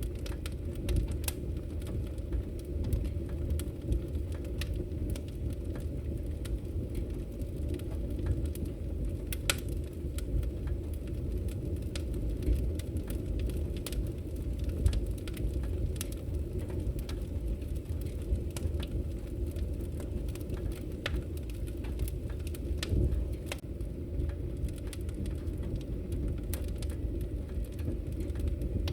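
Wood logs burning in a fireplace, crackling: irregular sharp pops and snaps over a steady low rumble from the fire.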